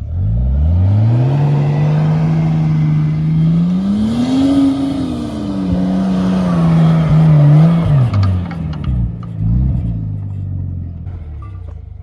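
Off-road vehicle engine revving up hard and held at high revs under load, climbing further about four seconds in before easing off. It drops back about eight seconds in, gives one short blip, and settles to lower revs.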